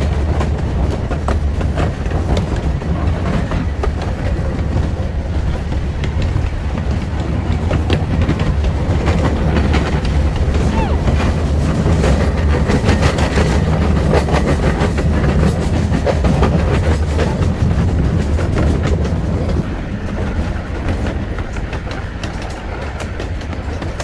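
Open wooden passenger cars of a small park train rolling along the track: a steady rumble from the wheels on the rails, with many quick clicks and rattles.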